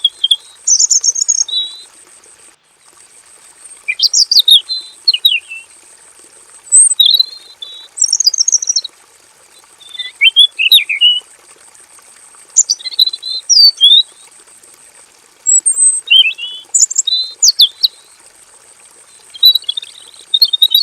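Male red-billed leiothrix singing: about seven short bursts of quick, sliding whistled notes, one every two to three seconds.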